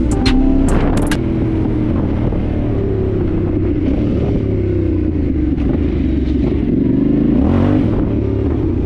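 Dirt bike engine running under way, its pitch slowly falling and rising with the throttle.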